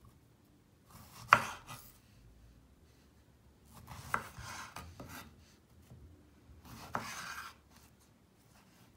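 Knife cutting food on a cutting board: three separate bouts, each opening with a sharp knock of the blade on the board, the first being the loudest.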